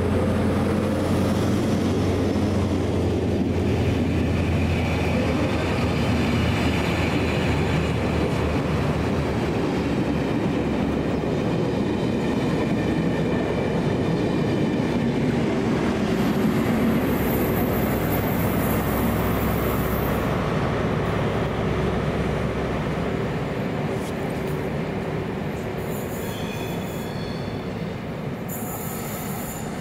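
A train running through the station with a steady rumble of wheels on rail, and high-pitched wheel squeals in the second half. The sound eases off gradually over the last several seconds.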